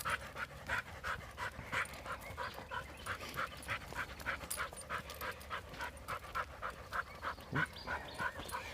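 A dog panting quickly and evenly on a walk, about four to five breaths a second.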